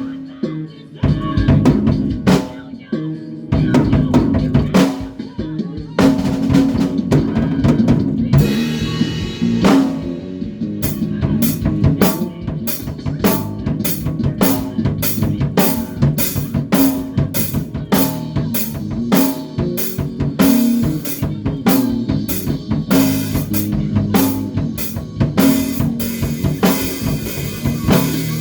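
A band rehearsing: a drum kit with kick and snare under low pitched instrument notes, settling into a steady beat of sharp hits from about eleven seconds in.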